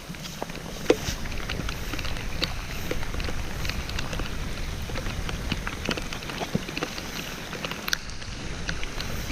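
Heavy rain falling, many separate drops hitting over a steady hiss, with a low rumble underneath and one sharp knock about a second in.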